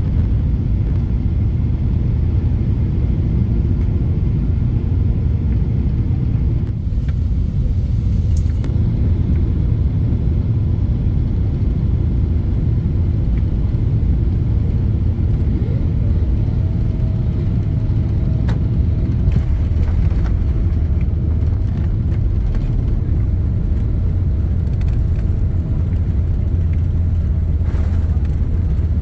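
Steady, loud low rumble of a vehicle running, with a faint steady tone coming in about halfway through.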